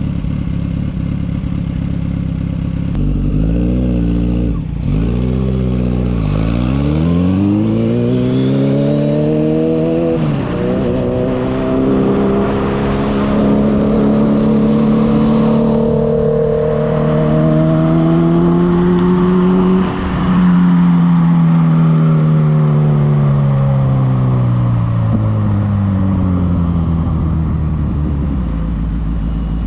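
Suzuki Hayabusa's 1300 cc four-cylinder engine accelerating hard through the gears: the revs climb, drop sharply at each upshift (three quick shifts), rise steadily for about ten seconds, then fall away slowly as the throttle eases off. Wind and road noise run underneath.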